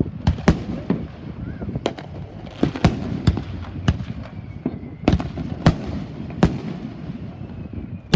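Aerial fireworks bursting, a string of sharp bangs at irregular intervals with a few much louder cracks, over a steady low rumble of the ongoing display.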